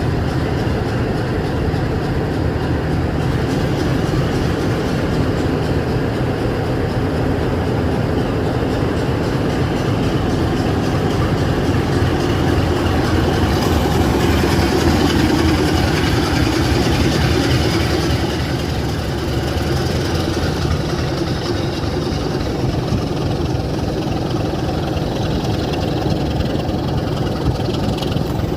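Class 27 diesel locomotive's engine running steadily, swelling louder for a few seconds about halfway through and then settling back.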